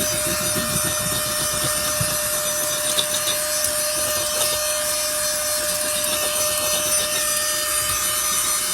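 Cordless handheld car vacuum running steadily with a constant whine, sucking over car carpet.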